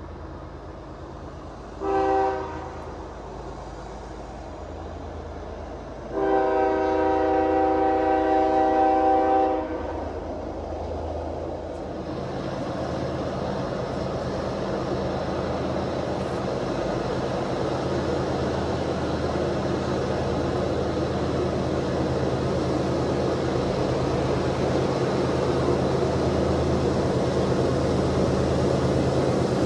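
Locomotive air horn sounds one short blast, then about four seconds later a long blast of about three seconds, a chord of several notes. After it, the engine rumble of the approaching train grows steadily louder.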